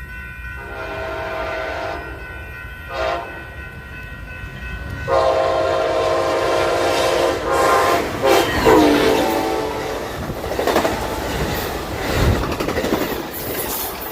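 Passenger train horn sounding a long blast, a short one, then another long blast that drops in pitch as the train goes by. The train then passes close by, with a loud rumble and the clatter of wheels over the rails.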